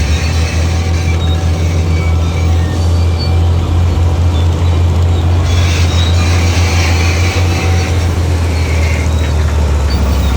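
Heavy diesel earthmoving machinery running: a strong, steady low engine drone with a rattling, squeaking metallic clatter over it.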